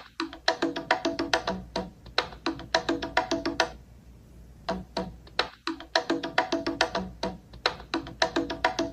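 A phone ringtone: a quick melody of short, sharply struck percussive notes. The phrase plays, pauses for about a second, and repeats.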